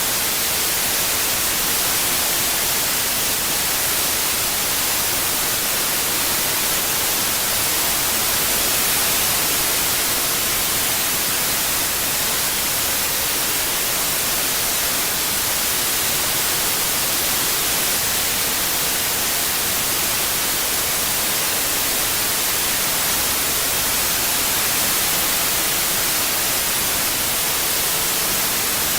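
Steady white noise: an even hiss with the most energy in the highest frequencies.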